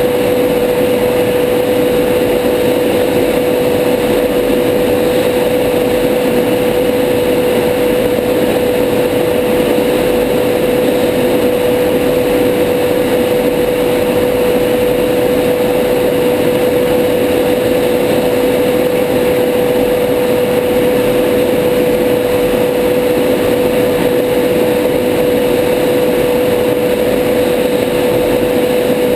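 Steady cockpit noise of a Tornado GR4 jet in fast low-level flight: an even rush of engine and air noise with a constant mid-pitched hum over it.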